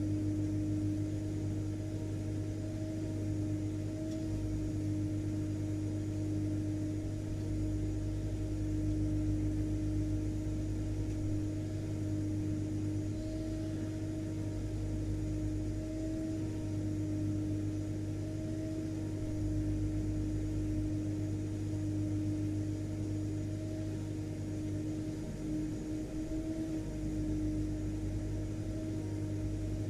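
Vacuum cleaner motor running steadily: an even hum and rush of air with a constant held tone over it.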